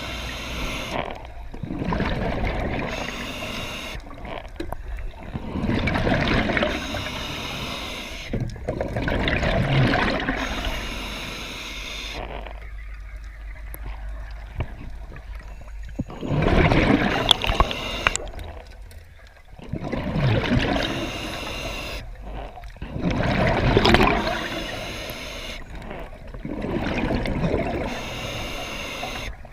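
Water gurgling and splashing in surges that come every few seconds.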